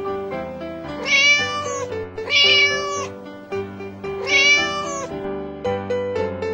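Domestic cat meowing three times, each meow under a second long and about a second and a half apart, over background music with sustained notes.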